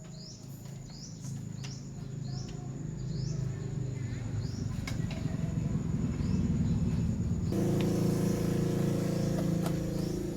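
Amplifier playing through its speakers: a low buzzing hum that grows steadily louder and turns fuller and harsher about seven and a half seconds in. Birds chirp repeatedly in the background.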